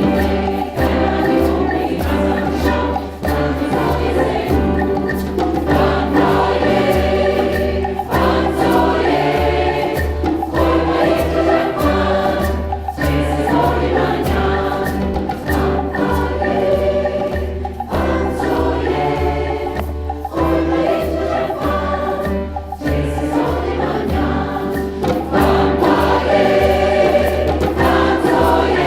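A community choir singing a song in several voice parts over a steady percussion beat.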